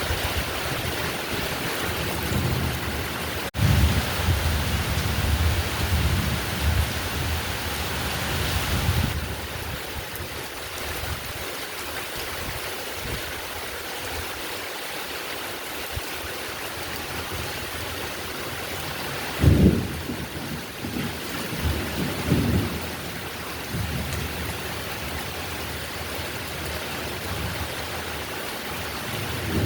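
Heavy rain falling steadily, with thunder. Low rumbles roll through the first several seconds, and a sharper thunder clap comes about two-thirds of the way through, followed by a few lighter rumbles. There is a momentary break in the sound a few seconds in.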